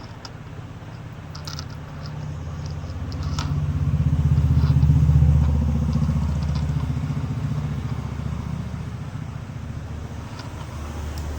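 A motor vehicle engine, low and pulsing, grows louder to a peak about halfway through and then fades as it passes by. A few light clicks sound in the first few seconds.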